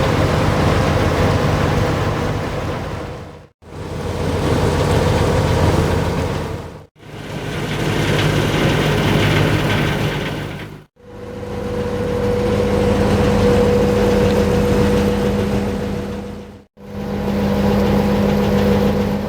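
Steady engine drone with a low rumble and a constant hum, in several short stretches that each cut out abruptly to silence before the next begins.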